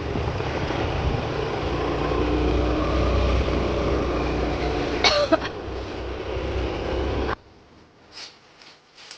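Steady rumble and noise of a moving vehicle, with a short sharp sound about five seconds in. The noise cuts off abruptly a little after seven seconds, leaving quiet with a few faint clicks.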